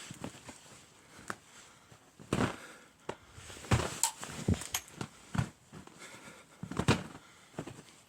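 Footsteps crunching through deep snow, a slow uneven step roughly once a second.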